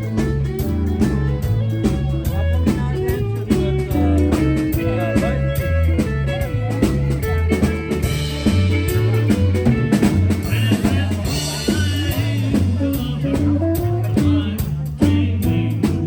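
A live country band playing an instrumental break, with no singing. A steady bass and drum-kit beat runs under lead guitar and fiddle lines.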